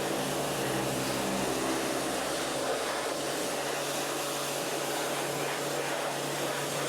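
V-TUF V7 brushless electric pressure washer running steadily, its motor humming under the hiss of the water jet spraying a car wheel to blast off brake dust.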